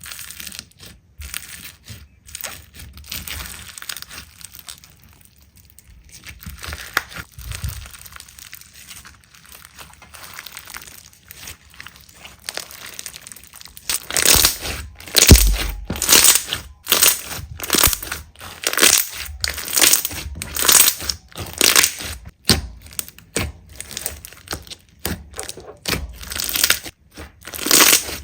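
Slime being handled by hand: soft sticky crackling at first, then from about halfway a run of loud presses or pokes, about two a second.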